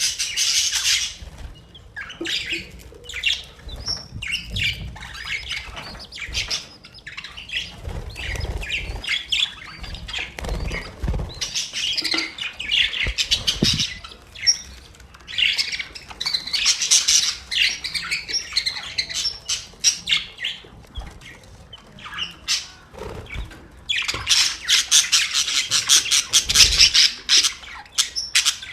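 Budgerigars chattering and chirping in a continuous warble of rapid squawks and tweets, with louder bursts of chatter several times.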